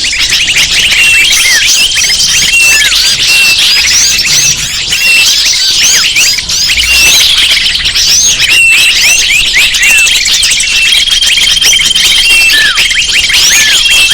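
Bird-lure recording: a dense, loud chorus of many small birds chirping and calling over one another in quick, overlapping sweeping notes. A steady high whistled note comes in about three-quarters of the way through and holds.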